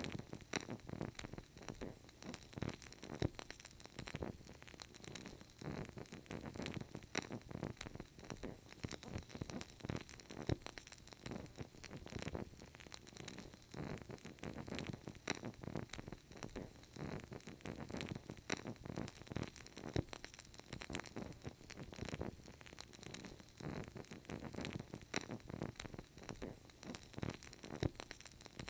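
Burning candle crackling: a dense, irregular run of small pops and crackles from the flame, never stopping.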